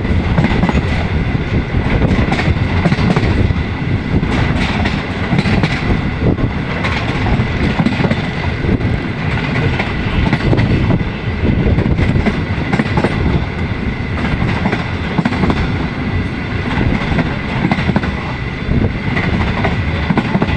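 Passenger train running at speed, heard from beside the coach: a steady rumble of steel wheels on the rails with a continuous clickety-clack over the rail joints.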